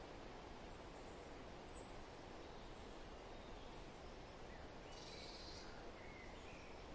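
Soft, steady wind noise. A brief high trill comes about five seconds in, followed by a few faint bird chirps.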